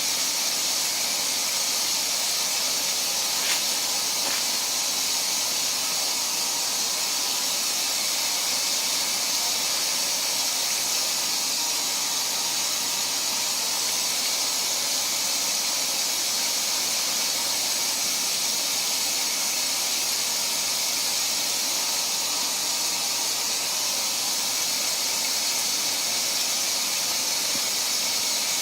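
Washing machine running with a steady, even hiss, with one faint click about three and a half seconds in.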